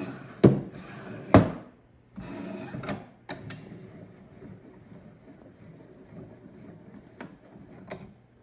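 Bench vise's quick-release jaw being slid and worked into place: two loud clunks early, then a sliding scrape and several smaller clicks. The brand-new mechanism is still tight and has to be worked in.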